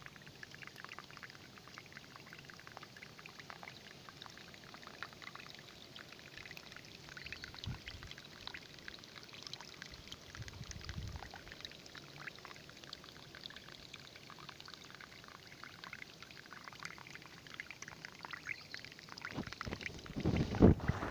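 Clear water trickling and splashing steadily, a dense patter of small drips and splashes. A few louder low thumps near the end.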